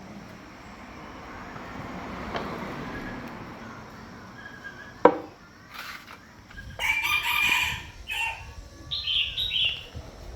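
A rooster crowing in the second half, its call loud and broken into several segments. Before it, a rushing noise swells and fades over the first few seconds, and there is a single sharp knock about five seconds in.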